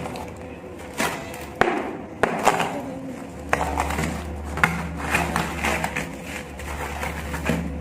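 Clumps of dry sand being crumbled apart: a series of irregular sharp crunches, each trailing off into a short crumbling trickle.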